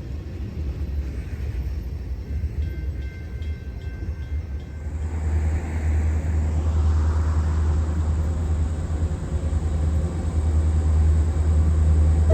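Approaching diesel freight locomotive, a low engine rumble that grows louder from about five seconds in.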